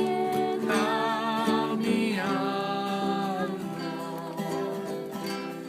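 A voice singing a slow melody over a strummed acoustic guitar, with steady chords under it.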